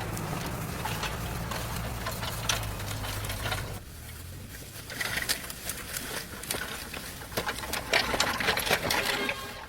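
Farm engine running at idle with a rapid, even putter, then shutting off about four seconds in. After that come scattered clicks and knocks.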